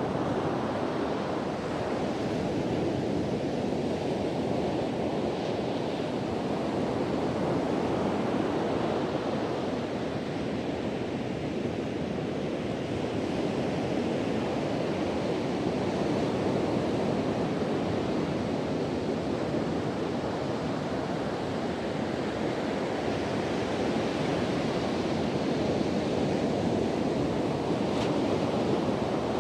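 Sea waves breaking and washing on a beach in continuous surf, swelling and easing every few seconds, with wind buffeting the microphone.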